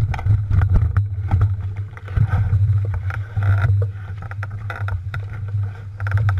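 Mountain bike riding over rough trail: a steady low rumble with many quick rattling clicks and knocks.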